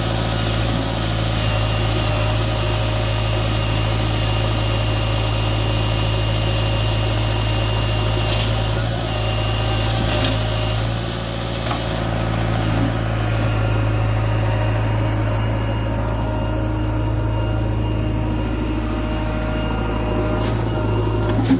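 Heavy diesel engine running steadily at constant speed, a deep hum with steady higher tones over it, and a sharp knock near the end.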